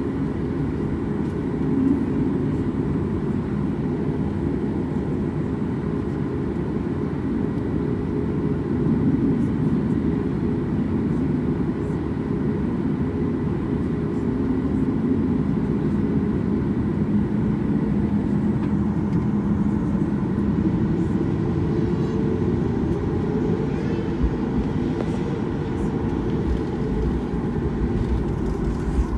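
Airliner cabin noise: a steady low rumble of the jet engines and airflow, with a faint steady whine above it.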